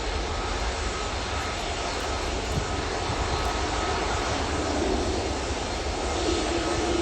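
Airbus A320's CFM56 jet engines on take-off, a steady rumble with faint whining tones; a stronger low tone comes in near the end.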